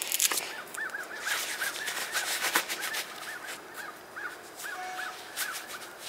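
Birds giving short, rising-and-falling calls over and over, about two or three a second, over crisp rustling as a glove is pulled on.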